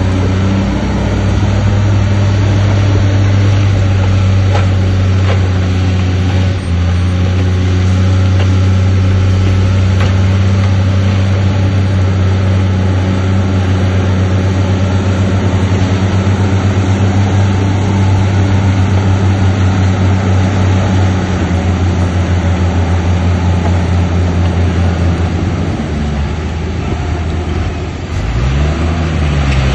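Diesel engine of a heavy earthmoving machine running steadily at constant speed. Near the end it slows and then revs back up.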